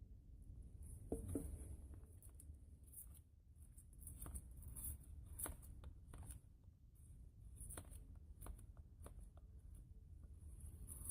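Faint, irregular light clicks and scrapes of wood being handled or worked by hand, with a slightly louder knock about a second in.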